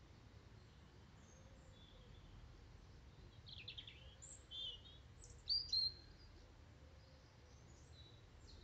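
Several short bird chirps, the loudest a little past the middle, over a faint steady low rumble.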